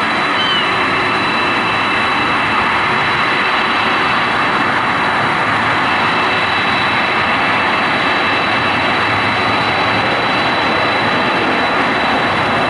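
Boeing 747-400 freighter's jet engines running steadily: a loud, even rush with a thin high whine held on top.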